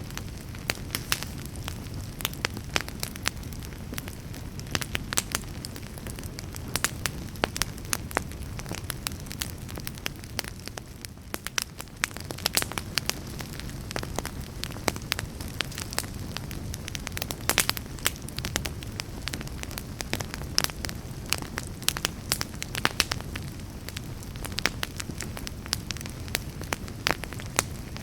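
Wood fire burning in a fireplace: a low, steady rumble of the flames with frequent sharp, irregular crackles and pops of the burning logs.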